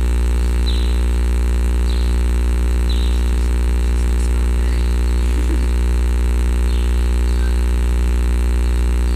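Loud steady low electrical hum with a stack of overtones, unchanging throughout, with a few faint short high chirps over it.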